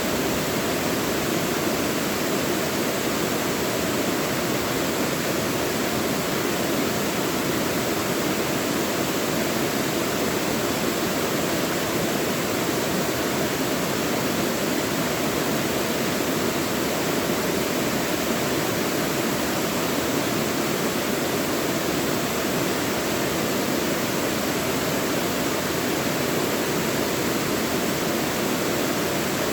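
Mountain valley stream rushing steadily over rocks, a constant full hiss of flowing water with no change in level.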